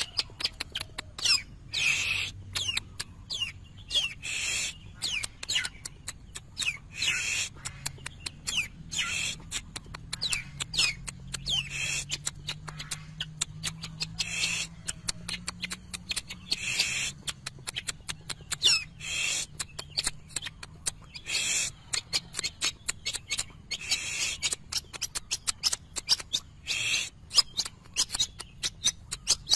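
Long-tailed shrike (cendet) singing in a fast, continuous stream: harsh chattering notes mixed with short falling whistles, a busy song full of imitated calls of other birds.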